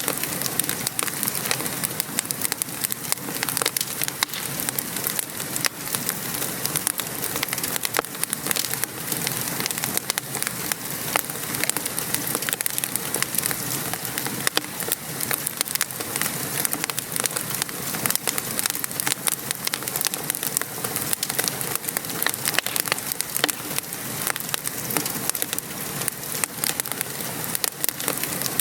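Steady rain falling on a surface, mixed with a wood fire crackling: a constant hiss of rain with many small, irregular pops and ticks throughout.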